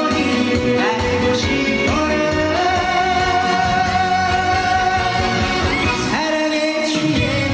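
A male singer performing a trot song live over a band, holding one long note through the middle.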